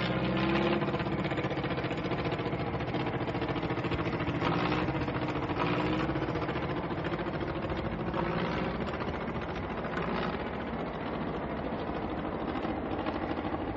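Piston aircraft engines droning steadily, with a slightly wavering pitch.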